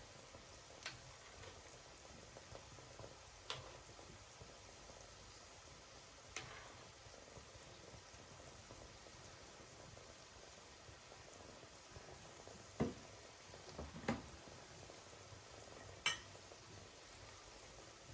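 Faint steady sizzle of food frying in a pan, with a few separate clicks and knocks of utensils against cookware, the loudest two knocks a second apart late on and a sharp click near the end.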